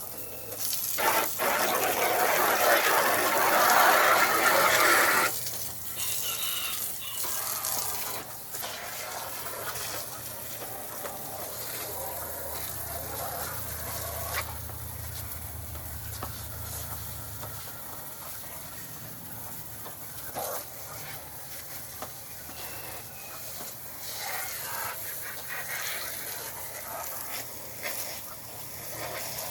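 Water spraying hard from a hose nozzle, loudest for about four seconds near the start, then running more quietly, with poultry clucking at times.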